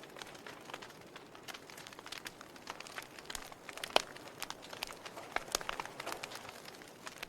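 Campfire crackling: wood popping in irregular sharp snaps over a soft steady hiss, the loudest pop about four seconds in.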